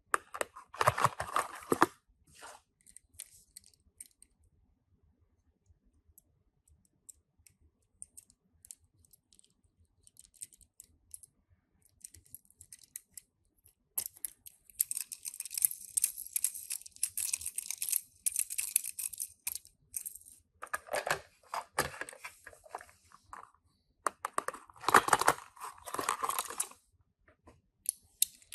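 Toy car packaging being torn open and crinkled by hand, in several crackly bursts with quieter stretches of faint ticks between, the longest burst about halfway through.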